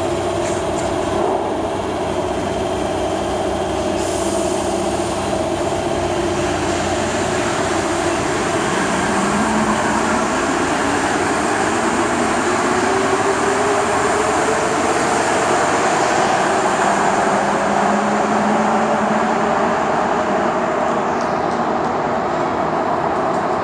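Santiago Metro train running with a steady rumble and rush of noise. Partway through, a whine rises in pitch.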